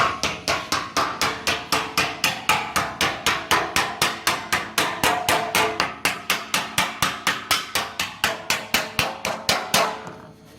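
Hammer striking a sheet-metal aircraft cowling panel in a fast, even rhythm of about four blows a second, each with a short metallic ring, to shrink the metal. The blows stop shortly before the end.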